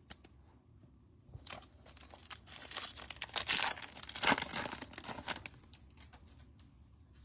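Foil trading card pack being torn open, the wrapper crinkling and ripping for a few seconds, loudest in the middle.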